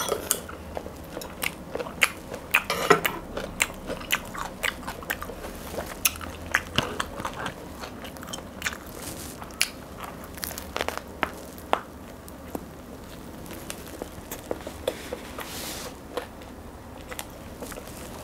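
Crusty baguette with pork pâté being bitten and chewed close to the microphone: the crisp crust crackles and crunches in many short, irregular snaps, which grow sparser in the last third.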